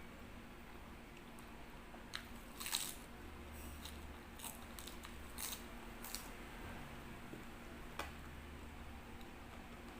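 Someone eating butter chicken up close, biting and chewing with a few sharp, crunchy clicks from about two seconds in and one more later on.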